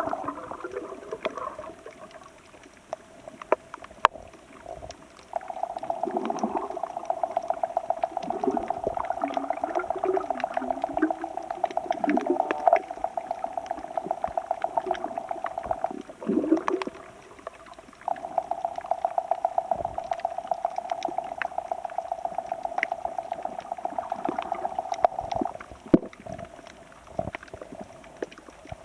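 Sea water sloshing and gurgling in the shallows, with a rapid, even pulsing buzz that runs in two long stretches, the first from about five seconds in and the second from about eighteen seconds in.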